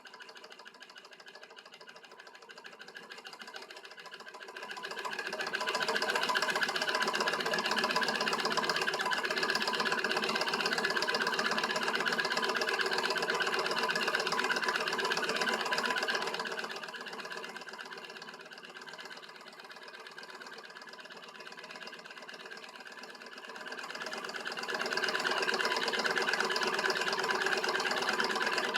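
Homemade beta-type Stirling engine running, a steady fast mechanical clatter of its moving parts. It grows louder about five seconds in, drops back at about sixteen seconds, and swells again near the end.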